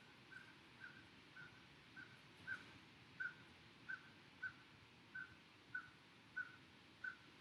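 Faint bird calling one short chirp over and over, about every half second, at a steady pitch.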